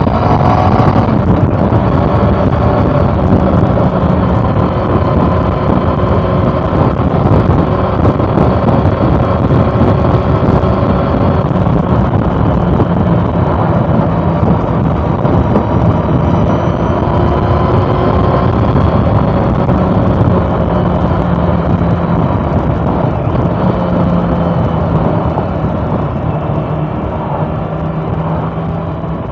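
2013 Honda CB400 Super Four Revo Hyper VTEC's inline four-cylinder engine running steadily under way, its pitch drifting gently up and down, over a haze of road and wind noise. It eases off slightly near the end.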